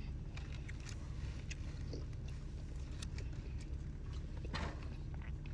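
Steady low engine hum, with scattered small clicks and rustles from food being handled and eaten.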